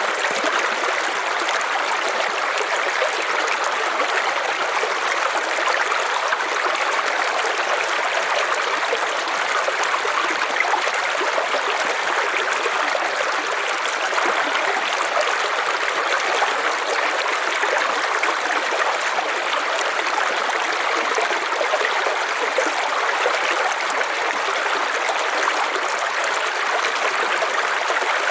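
River water flowing over rocks: a steady, even rushing with no change.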